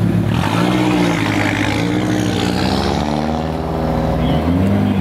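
High-performance car engine being revved, its pitch climbing and falling several times over a steady low running note.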